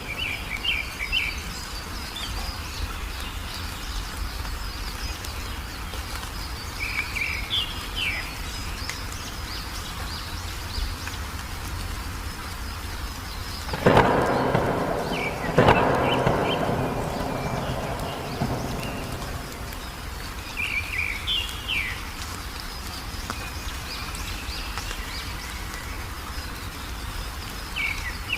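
Steady rain with a small bird giving a short chirping phrase every several seconds. About halfway through, two loud claps of thunder come a second or two apart and rumble away over a few seconds.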